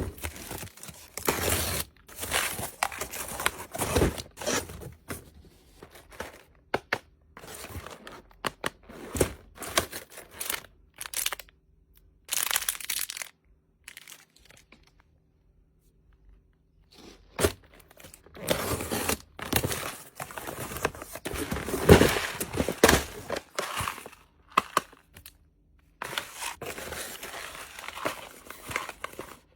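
Plastic snack packaging crinkling and tearing as it is handled and unwrapped, in irregular bursts with a quiet pause of a few seconds about halfway through.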